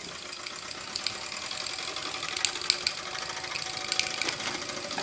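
Mamod TE1A model steam tractor's small single-cylinder oscillating steam engine running with a quick, steady mechanical ticking and hiss, with a few small clicks about halfway through. It is losing steam pressure and dying down.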